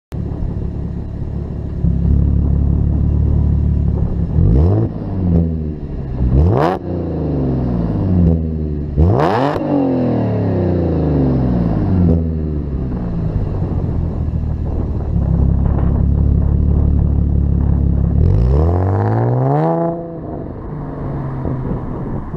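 2014 Audi S4's supercharged 3.0-litre V6 running through a Fast Intentions downpipe-back exhaust, revved in four quick rises that fall away more slowly: about four, six and nine seconds in, and again near the end. Between the revs the engine holds a steady note.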